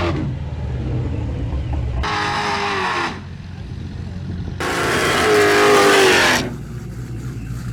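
Drag-racing cars' engines at full throttle: a steady low engine rumble with two loud engine surges, the first about two seconds in and the second near the middle, each falling in pitch.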